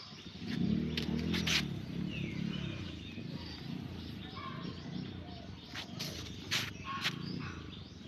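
Small birds chirping, over a low, pitched humming sound that is loudest in the first couple of seconds, with a few sharp clicks.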